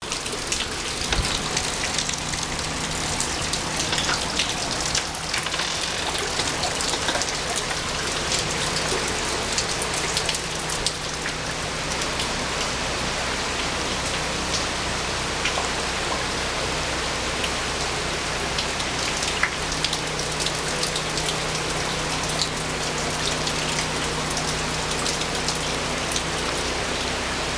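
Steady rain falling on surfaces, many separate drop ticks over an even rushing hiss, with a low steady hum underneath.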